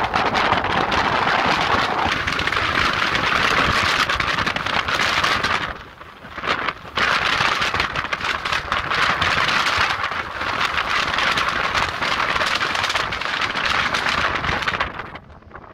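Steady rushing noise of a vehicle driving off-road with wind buffeting the microphone, dipping briefly about six seconds in and dropping away near the end.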